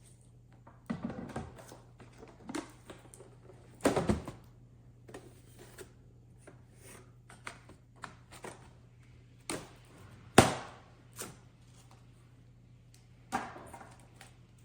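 A series of irregular knocks, clicks and light thunks from objects being handled, with the sharpest, loudest knock about ten seconds in.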